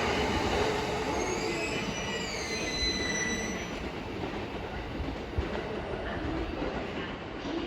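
Sobu Line electric train running past on the rails with a steady rumble of wheels. A thin, high-pitched wheel squeal comes in briefly about a second and a half in, and a single sharp knock sounds about five seconds in.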